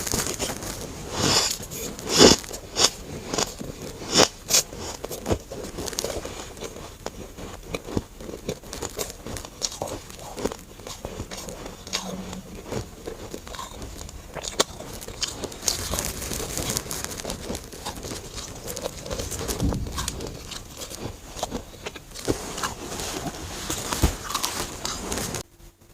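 Close-up crunching and crackling of freezer frost being bitten and chewed, with a run of loud crunchy bites in the first few seconds and steady crackling after. The sound cuts off abruptly just before the end.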